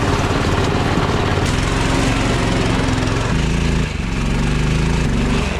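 Small single-cylinder engine of a Snow Dog tracked power sled running. Its pitch shifts about three seconds in, with a brief dip a moment later.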